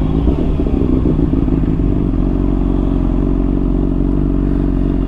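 Honda CBR600RR inline-four with a slip-on exhaust running under way, its engine note changing for about two seconds and then holding steady.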